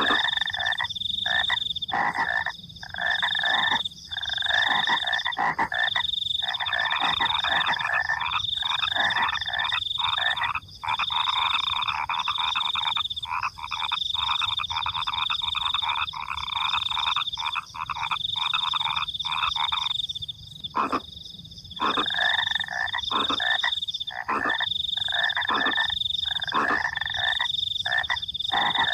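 A dense night chorus of frogs croaking, over a high insect trill that repeats in short, even pulses, typical of crickets. The frogs break off briefly about two-thirds of the way through, then resume.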